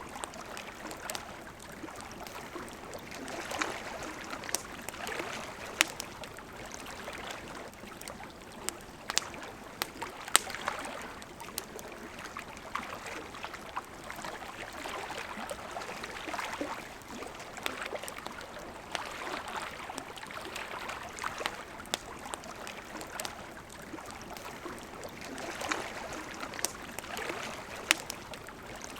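Wood fire crackling, with scattered sharp pops, a few much louder than the rest, over the steady rush of a flowing river.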